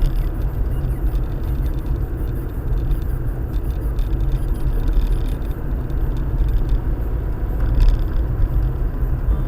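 Car driving along, a steady low rumble of engine and tyres on the road, recorded by a dashcam inside the cabin.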